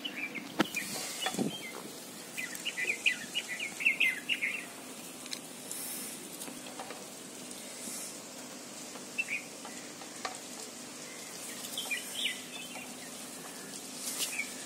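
Small birds chirping outdoors, in short clusters of quick high chirps, the densest a rapid run about two to four seconds in, over faint steady background noise.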